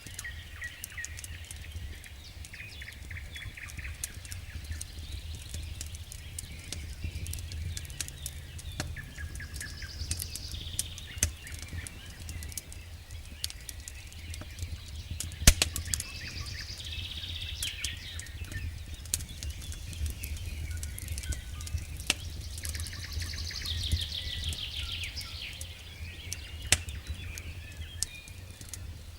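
Wood fire in a fireplace crackling, with scattered sharp pops (the loudest about halfway through) over a low steady rumble. Bursts of high, rapid twittering come and go.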